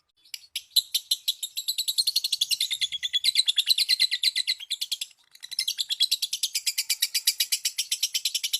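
Lovebird giving its long, rapid chattering trill (ngekek): a fast, even string of shrill notes, about ten a second. It breaks off briefly near the start and again about five seconds in.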